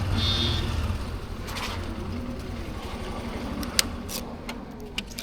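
Motorcycle engine running at low revs, with a short high beep at the start and a few sharp clicks in the second half.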